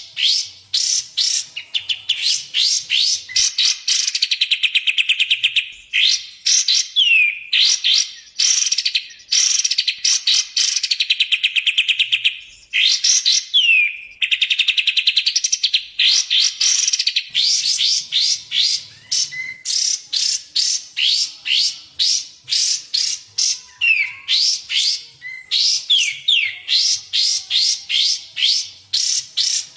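Kapas tembak and cucak jenggot songbirds singing: a nonstop run of sharp high chirps and fast rattling trills, with a few downward-slurred whistled notes.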